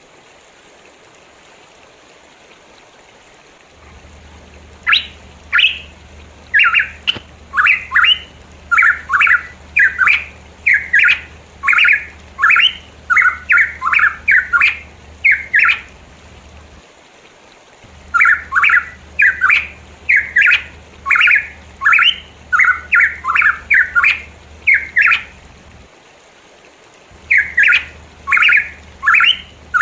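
Pitohui calling: bouts of short, harsh notes repeated about two a second, starting about five seconds in, with brief pauses between bouts, over a faint low hum.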